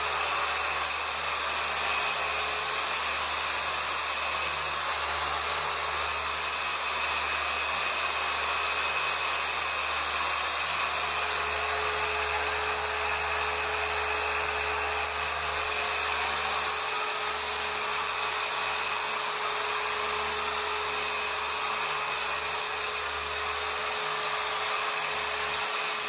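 Chicago Electric 6-inch dual action orbital polisher running steadily as it scrubs a pre-sprayed mattress.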